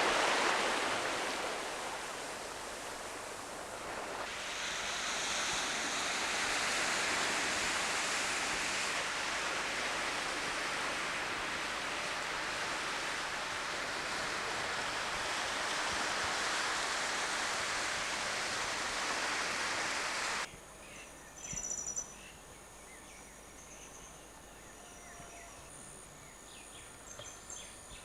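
Steady rush of running or breaking water that cuts off abruptly about two-thirds of the way through. A quieter outdoor background with thin, high chirps of insects or birds follows.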